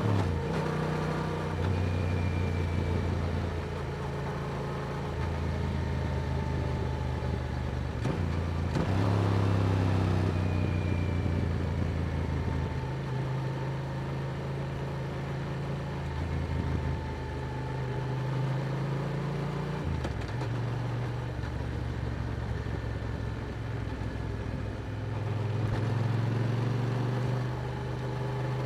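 Yamaha R7 parallel-twin motorcycle engine through an Akrapovic exhaust, heard on the move. Its pitch steps up and down several times as the throttle and gears change.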